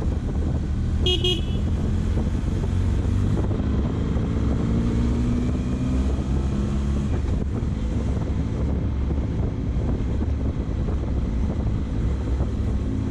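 Benelli motorcycle engine running while riding through city traffic, its pitch shifting as it speeds up and eases off. A short vehicle horn toot sounds about a second in.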